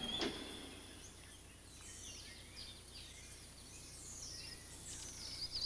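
Faint outdoor ambience of birds calling: scattered short chirps that grow busier near the end, over a low steady hum, with a short knock just after the start.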